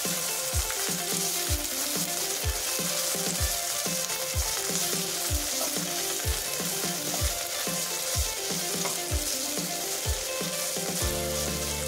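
Boiled sweetcorn kernels sizzling in hot olive oil in a non-stick kadai, with a spatula stirring and scraping them around the pan.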